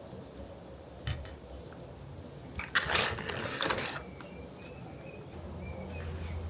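A plant pot and potting soil being handled: a light click about a second in, then about a second of scraping and rustling near the middle.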